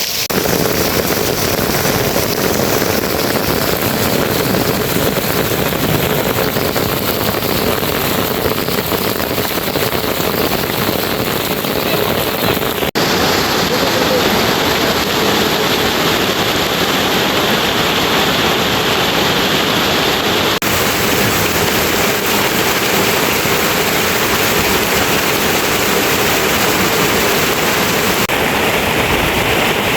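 Loud, steady rushing water, with the sound shifting abruptly a couple of times.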